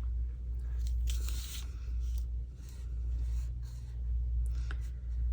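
Felt-tip markers rubbing back and forth on paper in several short scratchy bouts while colouring in, over a steady low hum.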